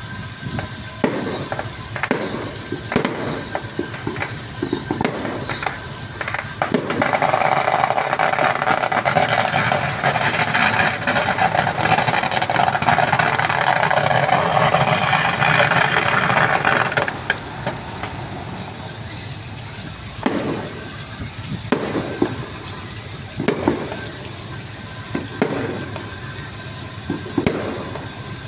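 Water splashing and sloshing in irregular strokes, with a louder steady rush of water lasting about ten seconds in the middle.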